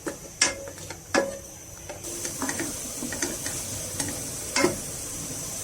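A spatula stirring onion paste in a cooking pan, knocking against it a few times, while the paste sizzles with a steady hiss from about two seconds in as its water cooks off.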